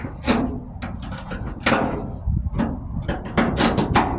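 A series of irregular knocks and taps, several in quick succession near the end.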